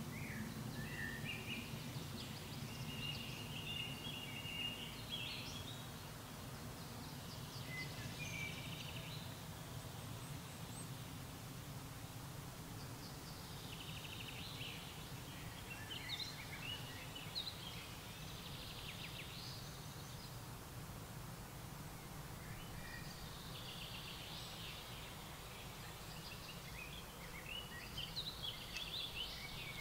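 Songbirds calling and singing in short clusters of high notes, with pauses between them, over a steady low background rumble.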